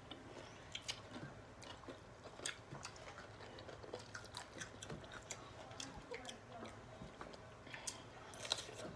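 Two people chewing mouthfuls of pickle close to the microphone: soft wet chewing with many small scattered clicks and smacks, one louder near the end.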